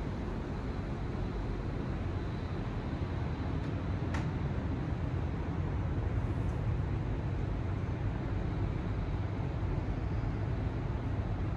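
Shinkansen bullet train running at speed, heard from inside the car as a steady low rumble. A single sharp click comes about four seconds in.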